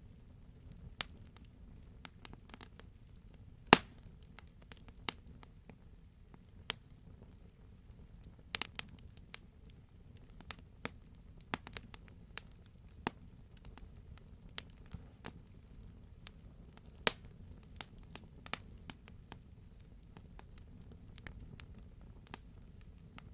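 Wood fire crackling: irregular sharp pops and snaps, the loudest a few seconds in, over a soft steady low rumble of the burning.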